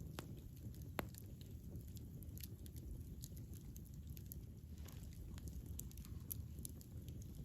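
Campfire crackling: scattered sharp pops and snaps from the burning wood over a low steady rumble, with one louder pop about a second in.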